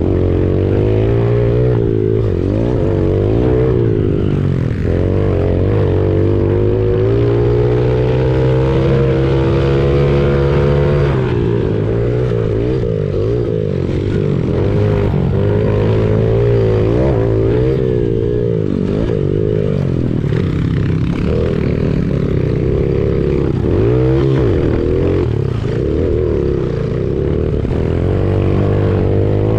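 Honda CRF70 pit bike's small single-cylinder four-stroke engine racing, revving up and easing off again and again as it goes through the gears, heard close up from on the bike.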